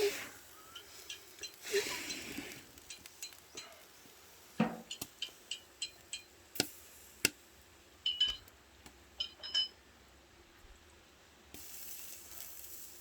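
Scattered clinks and taps of utensils and dishes: sharp ticks and a few small ringing clinks, with short stretches of hiss about two seconds in and near the end.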